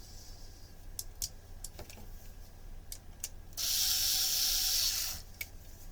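Plastic turntable parts being handled, with scattered clicks, then a loud steady mechanical rattling whir for about a second and a half.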